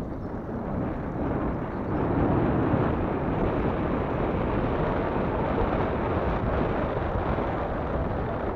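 Wind buffeting the microphone in a steady low rumble while riding a recumbent bicycle.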